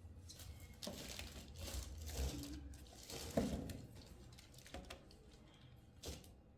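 Crinkling and rustling of packaging being handled, with a few light knocks, the loudest about three and a half seconds in, over a low hum.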